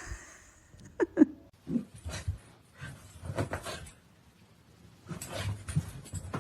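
A dog making a few short whining, grumbling sounds about a second in, followed by scuffling noises.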